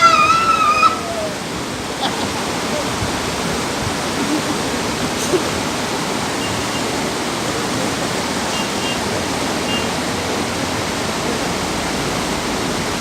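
A fast river rushing, a steady, even roar of water. A raised voice trails off in the first second.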